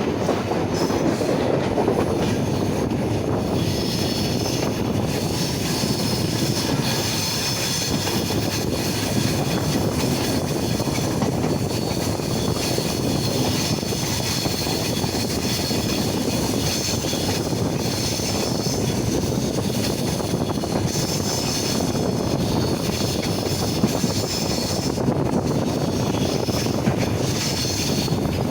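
Train running through a long, tight railway curve: a steady rumble of wheels on the rails, with a high wheel squeal that comes and goes in spells of a few seconds as the wheel flanges grind against the curved rail.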